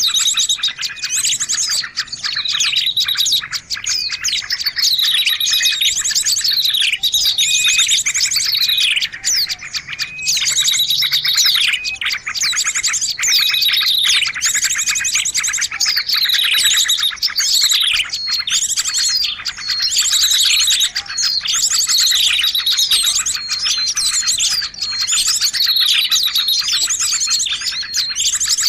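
Small-bird lure recording: dense, continuous high-pitched chirping and twittering from small songbirds, with fast trills and falling calls repeated every second or two.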